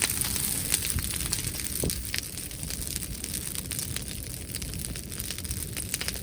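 Wood bonfire crackling, with irregular sharp pops and snaps, over a steady low rumble of wind on the microphone. A brief rising whistle sounds about two seconds in.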